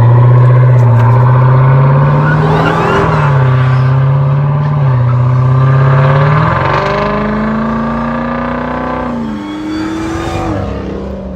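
Car engine accelerating hard: its pitch climbs, drops back twice at gear shifts, then rises higher and fades away.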